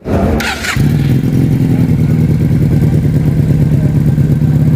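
FKM Victorino 250i motorcycle engine running steadily at a low, even pitch. There is a brief hissing clatter about half a second in.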